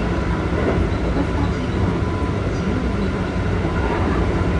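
Keikyu 1500-series electric commuter train running at speed, heard inside the passenger car: a steady rumble of wheels on rail.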